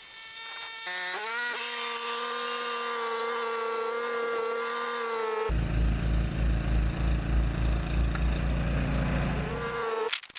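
Yamaha YT660EDJ snowblower running: a steady high whine that steps up and rises in pitch about a second in, then gives way to a heavier low pulsing engine rumble about halfway through, with the whine returning near the end.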